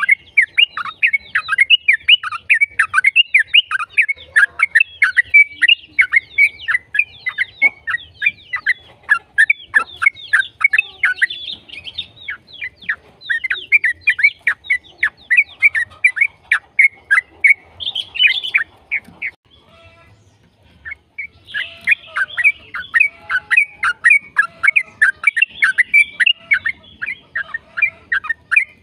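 Yellow-vented bulbul (trucukan) singing a long, fast run of chattering, down-sweeping notes, several a second, with a pause of about two seconds roughly twenty seconds in before it starts again.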